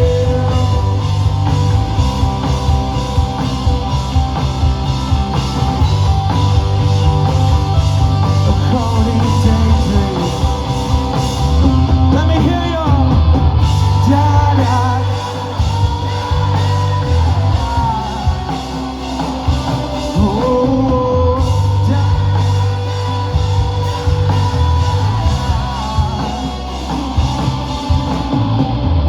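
Live rock band playing loud, with a heavy drum kit and bass under the guitars and a singing voice over them.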